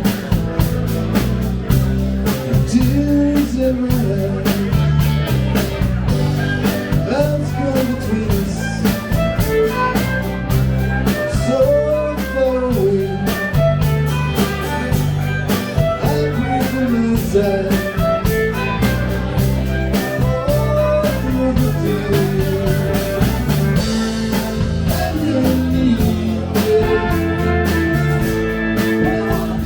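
Live rock band playing an instrumental passage: guitar lines with bent notes over bass and a steady drum kit beat.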